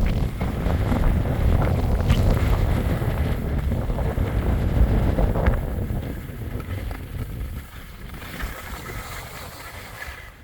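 Wind buffeting the microphone, a gusty low rumble that eases off about three-quarters of the way through.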